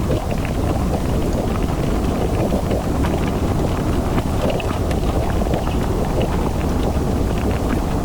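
Steady low rumble of a car driving in rain, with many small, scattered taps of raindrops hitting the car.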